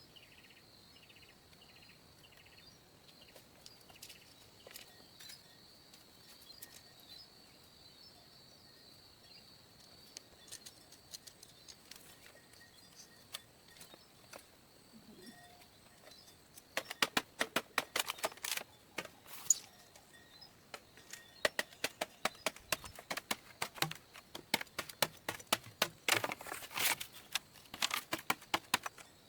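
Outdoor ambience with a steady high insect buzz and a short run of bird chirps, then, over the second half, rapid runs of sharp taps or clicks from some hand work.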